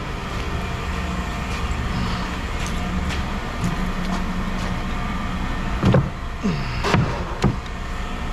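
A steady low engine hum, with a few sharp metal clanks and short squeals near the end as scrap metal is handled.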